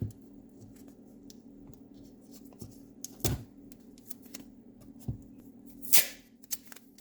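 Handling noises from a small paint can and its lid: a few separate knocks and clicks, the loudest near the end with a brief hiss, over a steady low hum.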